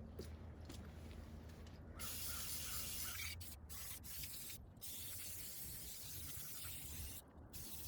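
A few short scrubbing strokes, then from about two seconds in a steady hiss of liquid being sprayed onto the mini bike during its degreasing scrub-down, broken off briefly a few times.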